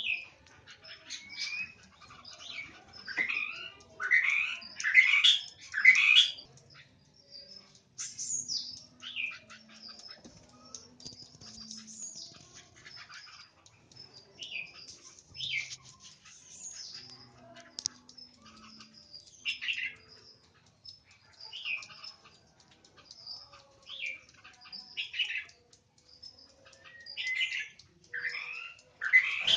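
White-rumped shamas calling in a cage: a series of short calls that fall sharply in pitch, with thin high chirps between them. The calls bunch loudest about four to six seconds in and again near the end.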